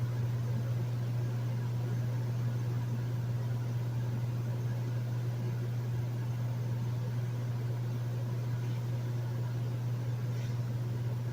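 Hotel room air conditioner running steadily: a strong, constant low hum with an even hiss of airflow over it.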